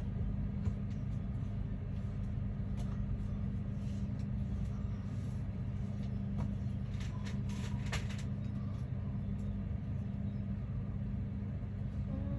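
A steady low mechanical hum, with a few light clicks and taps about seven to eight seconds in.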